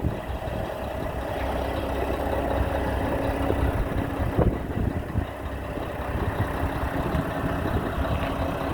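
2001 Mack CH613 semi truck's diesel engine idling steadily, with a constant low hum and a few short knocks.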